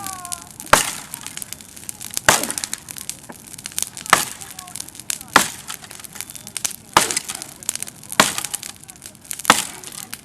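Willow wood cracking sharply about every second and a half, with fainter crackling in between.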